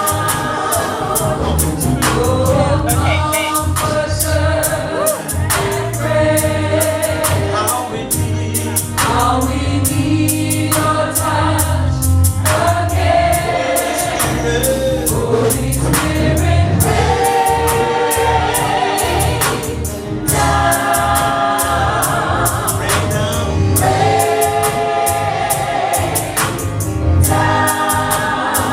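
Gospel choir singing a worship song with band accompaniment: a strong bass line under the voices and a steady beat of drums and cymbals.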